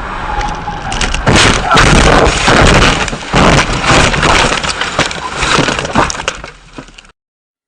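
Car crash: a run of loud impacts and breaking, crunching sounds over several seconds, then the sound cuts off abruptly.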